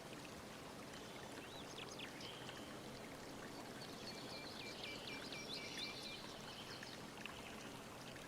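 Faint steady background hiss with a small bird chirping faintly: one note about two seconds in, then a quick run of repeated chirps a little past the middle.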